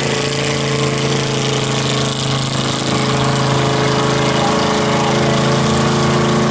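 Mud-racing Jeep's engine running at a steady speed, getting slightly louder about three seconds in.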